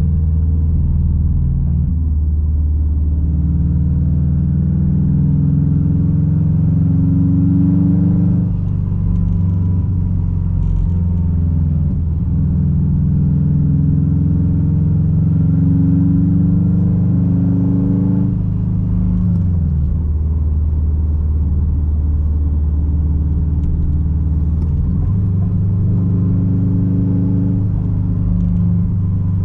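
Straight-piped 2006 Subaru WRX STI's turbocharged flat-four running under way with a deep, steady exhaust drone. The sound dips briefly twice, about a third and two-thirds of the way through; after the second dip the pitch falls, then picks up again near the end.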